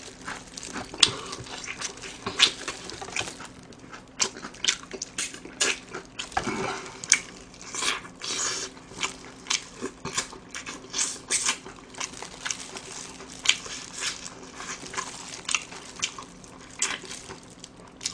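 Close-miked chewing of crispy fried chicken: irregular crisp crunches and wet mouth clicks.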